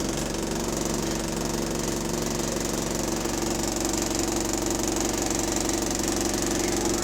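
Bus engine running steadily with a fast, even knocking through it, the knock the uploader puts down to a worn connecting rod (rod knock).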